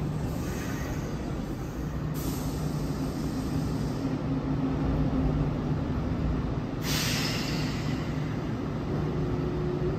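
Kintetsu electric commuter train at the platform giving a steady low electrical hum, with a short hiss of air about seven seconds in. A motor tone starts near the end as the train begins to pull away.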